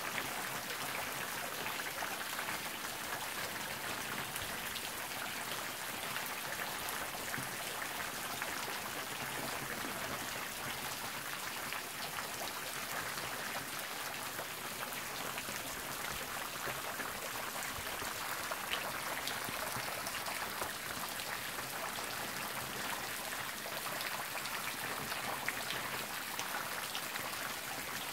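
Steady rain falling on trees and grass: an even hiss with scattered louder drops ticking through it.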